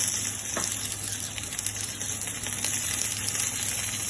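Oil sizzling steadily as pumpkin-leaf-wrapped dried-fish cakes shallow-fry in a pan, with a light click or two from the utensil turning them over.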